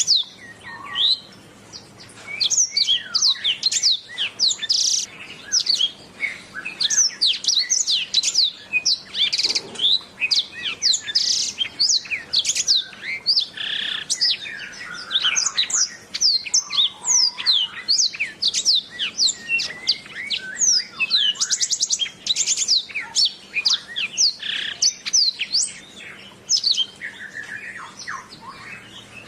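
Domestic canary singing a long, unbroken song of rapid chirps and quick downward-sweeping whistles, with fast trills, including a rapid even trill about two-thirds of the way through.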